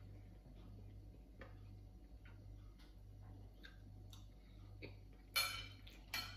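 Faint chewing with scattered small mouth clicks. Near the end a metal spoon knocks against a ceramic plate twice, the loudest sounds here.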